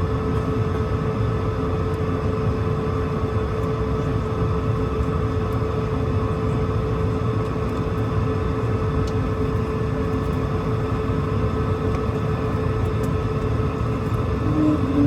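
Airbus A220-300's Pratt & Whitney geared turbofan engines running steadily with a constant whine over a broad rumble. Near the end a second whine comes in and the sound grows louder.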